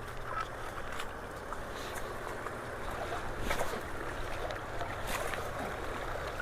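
Floodwater rushing along a swollen creek and through a road culvert: a steady wash of water noise with scattered small splashes and ticks.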